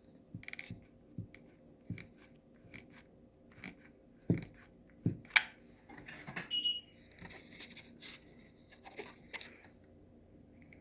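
Handling noises from hot-gluing and wrapping a fabric strip around a craft paddle: scattered small clicks, taps and crinkles, with a few sharper knocks around the middle and a brief squeak just after them.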